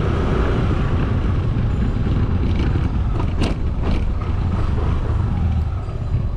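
Motorcycle riding in city traffic: a steady, loud rumble of engine, road and wind noise, with two short sharp clicks about halfway through.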